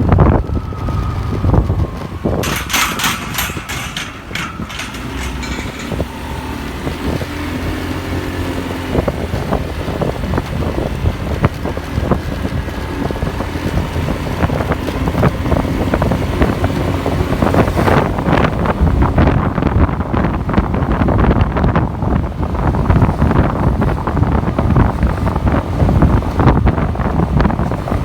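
Riding on a motorcycle: the engine and passing road traffic under wind buffeting the microphone, with a short run of sharp clicks about three seconds in, growing louder in the second half.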